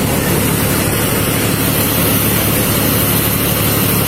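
Motor vehicle engine idling: a steady low hum that does not change.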